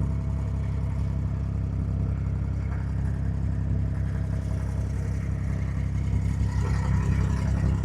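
Diesel engine of a wooden abra ferry boat running at a steady pace with an even low hum.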